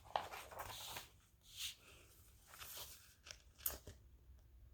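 Faint, irregular paper rustling and crinkling from handling paper, with a few small ticks.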